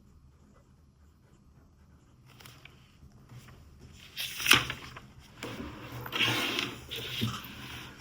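Handling noises: a sharp tap or knock about four and a half seconds in, then a couple of seconds of rustling and scraping.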